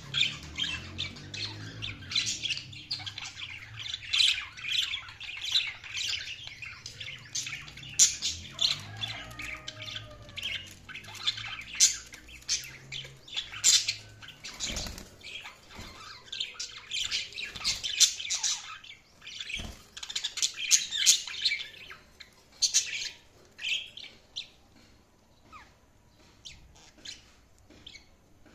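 A group of budgerigars chirping and squawking in quick, overlapping chatter that thins out to scattered calls near the end. Two sharp knocks sound about midway and a few seconds later.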